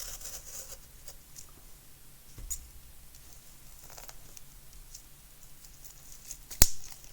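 Packing tape being worked off a cardboard shipping box: light scratching and rustling, a few small clicks, and one sharp click about six and a half seconds in.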